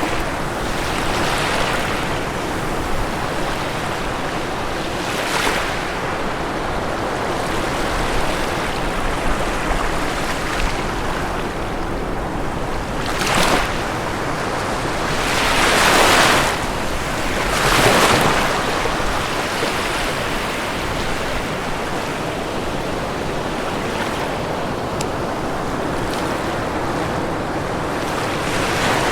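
Ocean waves breaking on a shore over a steady wash of surf, with several louder breakers rising and falling, the biggest about halfway through.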